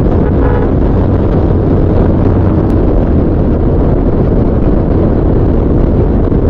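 Bajaj Pulsar 220's single-cylinder engine running steadily at cruising speed, heard from the rider's seat under heavy wind rumble on the microphone.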